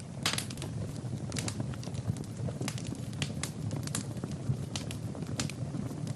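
Fire crackling in a fireplace: irregular sharp snaps and pops, several a second, over a low steady rumble of flames.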